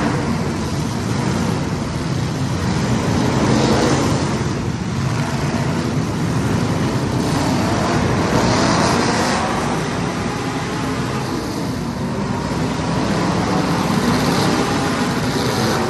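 A pack of small race-car engines running at speed around a short track. Their pitch rises and falls as they pass, and the sound swells and fades every few seconds as the cars come round.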